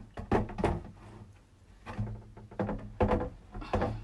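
Plastic parts of an ultrasonic humidifier handled and knocked into place: a few dull thunks, two close together about half a second in, then others at about two and three seconds.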